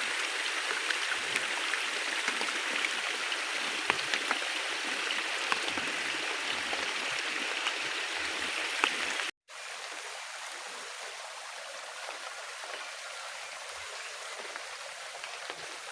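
Heavy rain falling steadily, a dense hiss with many scattered drop ticks. About nine seconds in the sound cuts out for a moment, then the rain continues more softly.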